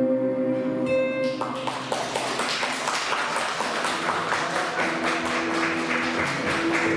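A song ends on a held note about a second and a half in, and a small audience applauds, with a steady musical tone under the clapping near the end.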